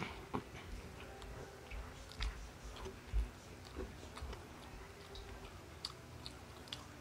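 A person chewing a mouthful of rice and fried food close to the microphone, with scattered small wet mouth clicks and smacks.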